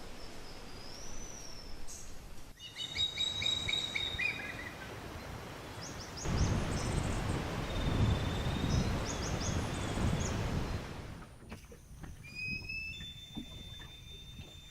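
Wild birds calling and singing in short field recordings cut one after another: high whistles and rapid chirped note series, with a loud rushing noise under the calls in the middle stretch.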